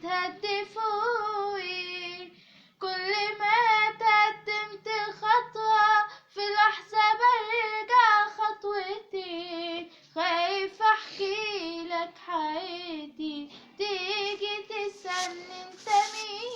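A high, young voice singing an Arabic song melody in long phrases broken by brief pauses.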